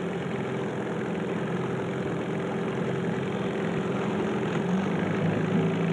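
Fishing boat's outboard motor idling steadily, a low hum under a constant wash of noise.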